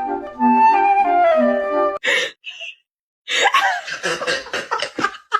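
A flute melody over a light, regular beat that cuts off suddenly about two seconds in. After a short pause come a few seconds of irregular, choppy sounds.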